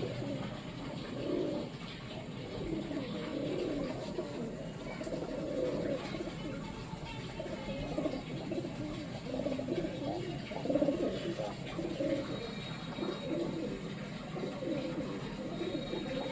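Several pigeons cooing continuously, their low warbling calls overlapping one another.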